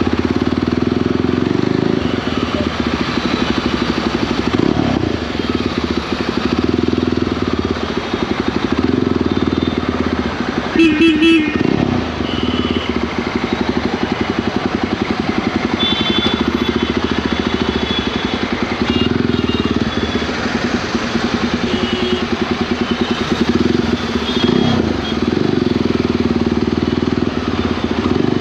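Single-cylinder motorcycle engine running steadily at cruising speed, heard from the rider's position with road and wind noise. Partway through, a horn beeps briefly in a few quick pulses.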